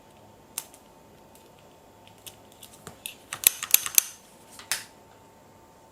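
A string of sharp metallic clicks and ticks from handling a new bicycle shift cable and tools. The clicks are scattered at first, bunch into a loud flurry about three and a half to four seconds in, and end with one more click.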